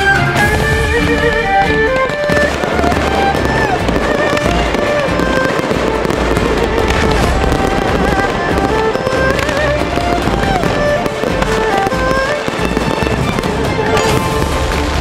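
Aerial fireworks bursting and crackling in a dense, continuous barrage with low booms, over music with a wavering melody.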